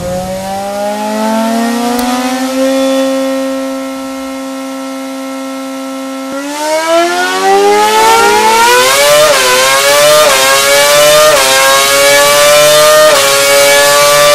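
Renault V8 Formula One engine revving. Its pitch rises, holds steady at a high rev for a few seconds, then from about six seconds in climbs again, louder, with brief small dips every second or so.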